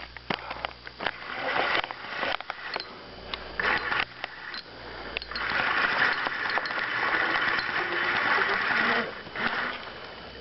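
Spinning fishing reel working against a hooked fish that is taking drag: a run of ticks at first, then a steady whir for about four seconds from about five seconds in.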